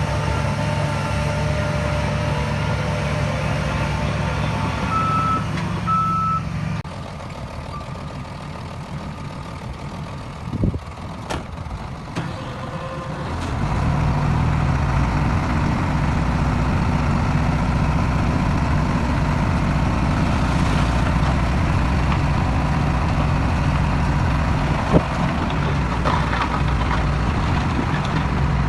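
Heavy diesel earth-moving machinery running steadily, with two short reversing-alarm beeps about five seconds in. The engine drops off for several seconds, with a couple of knocks, then comes back louder and stays that way.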